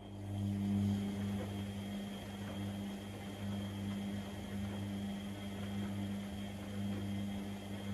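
Privileg Sensation 952 S top-loading washing machine running: a steady electric hum switches on abruptly at the start and holds, with a faint high whine over a rushing noise.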